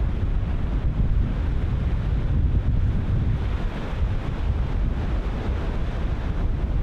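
Ocean surf breaking continuously, with wind buffeting the microphone in a steady low rumble.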